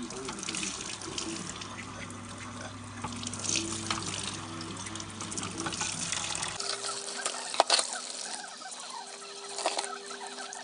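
Water running from a tap into a sink, with a few sharp knocks and clinks. A low hum drops out abruptly partway through.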